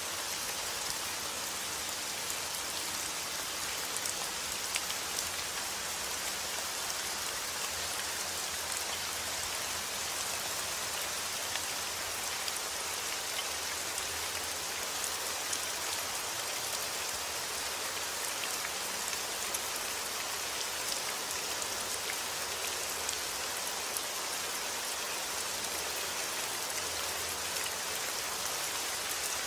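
Steady heavy rain falling outdoors, a dense even hiss with many individual drops pattering on surfaces.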